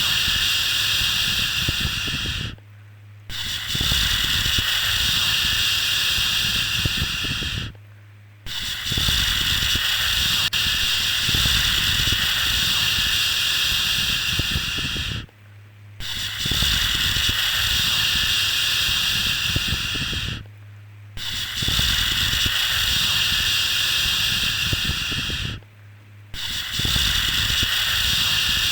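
Repeated 'shhh' shushing for soothing a baby to sleep: long hissing shushes several seconds each, broken by short pauses of under a second, five times, with a faint low hum under each shush.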